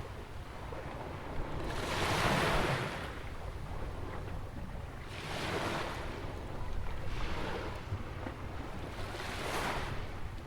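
Ocean waves washing in at a beach beside a jetty, surging and falling back every few seconds. A low wind rumble sits on the microphone throughout.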